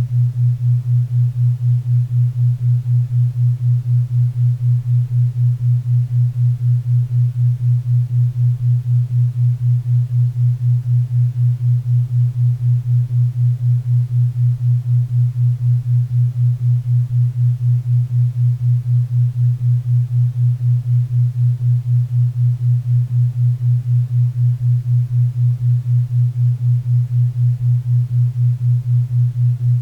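Synthesized 4 Hz theta-wave tone: a low hum pulsing steadily about four times a second, over a faint bed of pink and brown noise.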